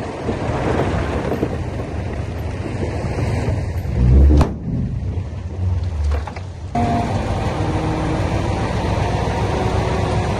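Heavy earthmoving machinery running steadily, with a heavy low thud about four seconds in and a softer one about two seconds later; the sound changes abruptly shortly after.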